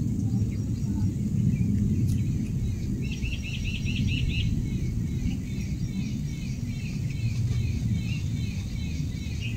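A bird chirping repeatedly over a steady low rumble. A quick run of chirps comes about three seconds in, then the chirps go on at about two a second.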